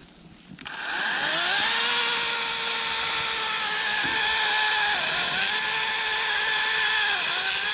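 Harbor Freight LYNXX 40V cordless electric chainsaw spinning up about half a second in and then running at a steady high whine while cutting through a log, its pitch dipping briefly twice as the chain bogs in the wood.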